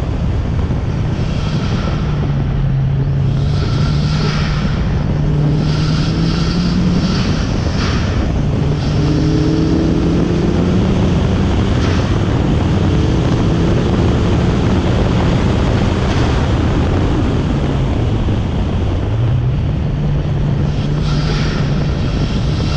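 Turbocharged 1992 Mazda Miata's 1.6-litre four-cylinder engine working hard under load, its pitch climbing and falling again and again through gear changes and corners.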